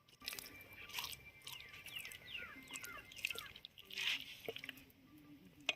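Hands rubbing an oily masala paste into a raw skinned turkey, giving faint wet squishing and smacking sounds. A sharp click comes near the end.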